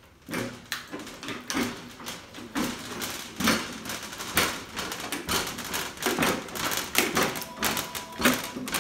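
Wheeled engine run stand being rolled across the floor, a damaged caster wheel clunking and rattling over and over: part of the wheel has broken off, leaving it out of round.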